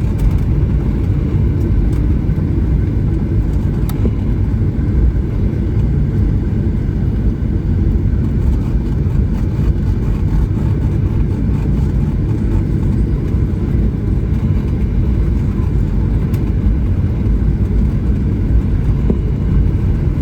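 Steady low rumble in the passenger cabin of a Boeing 737-900 taxiing, its CFM56-7B engines running at low power.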